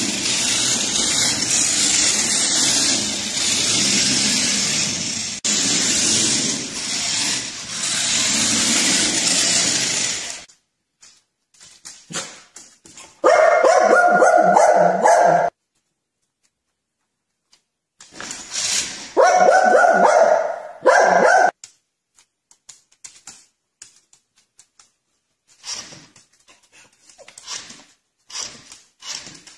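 A dog vocalising in two loud spells of about two seconds each, after about ten seconds of loud, steady rushing noise.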